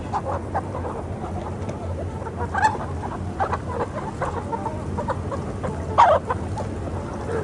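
Free-range village chickens clucking, scattered short calls with louder clucks about two and a half seconds and six seconds in, over a steady low background hum.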